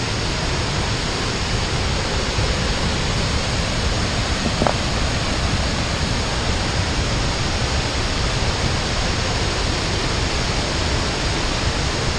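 Waterfall rushing: a steady, loud, even roar of falling water, with one brief faint blip about halfway through.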